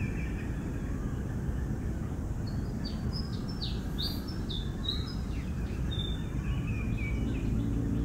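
Birds chirping: a quick run of short, high calls a few seconds in, then a few more a little later, over a steady low background rumble.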